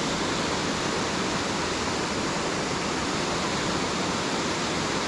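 Waterfall running powerfully down into its splash pool: a steady, unbroken rush of falling water.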